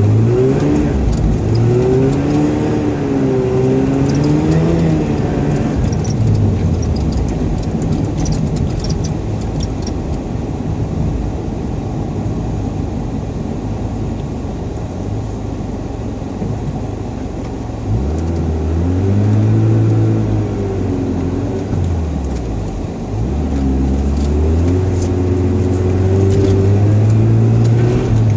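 Mazda RX-7's naturally aspirated 13B two-rotor rotary engine revving up and down as the car is driven hard on snow. The revs swing several times, ease off for a while in the middle, then climb again and hold high near the end.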